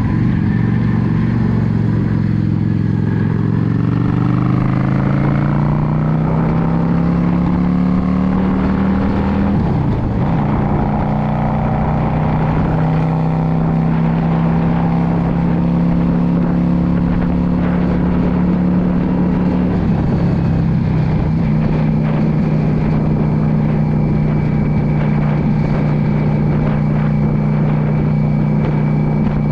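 Yamaha V Star 650's air-cooled V-twin engine under way. Its pitch rises as it accelerates, breaks briefly at a gear change about ten seconds in and again about twenty seconds in, then holds a steady cruising note.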